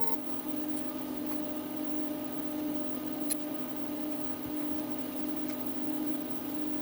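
Small CNC mill running a program, its motors giving a steady hum, with one faint tick about three seconds in.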